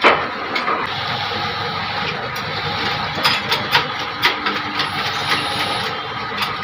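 Steady mechanical hum with scattered sharp metal clicks and taps, from tools working the worn bearing off an e-rickshaw motor's shaft.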